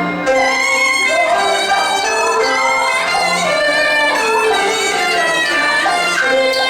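Teochew opera ensemble playing an instrumental passage, a bowed-string melody with sliding notes leading over the other instruments.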